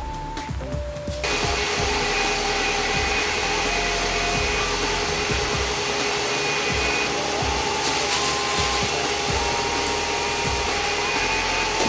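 A power tool starts about a second in and runs steadily with a constant whine over a hiss, the kind of sound made by bodywork sanding or a dust extractor.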